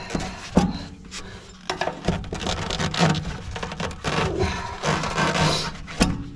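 Repeated scraping and rubbing strokes worked by hand against a hard surface, with a few sharp knocks among them.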